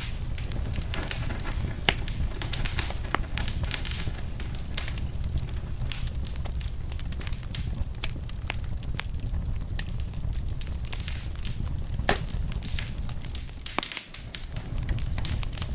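Wood fire burning in a fireplace, crackling with frequent sharp pops over a steady low rumble. One louder pop comes about twelve seconds in, and the rumble dips briefly near the end.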